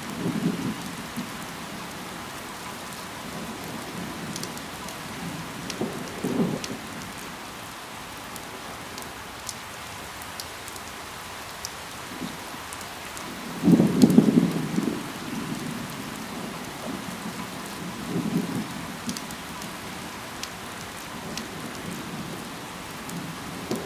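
Steady rain falling on leaves, with many scattered drop ticks. Several short, heavier low bursts come and go; the loudest is about 14 seconds in.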